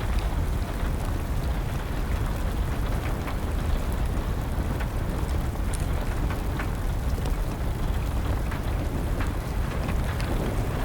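Steady rain with the scattered sharp pops and crackles of a burning wood fire, over a low rumble.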